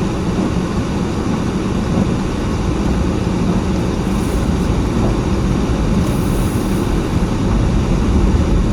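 Steady low rumble of engine and road noise inside a car's cabin.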